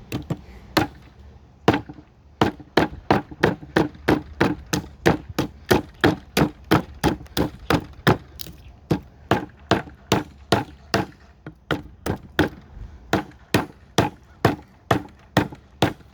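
Hatchet chopping into a cedar block in a steady run of sharp blows, about two to three a second, with a short pause about a second in: rough-hacking relief cuts to shape a carving blank.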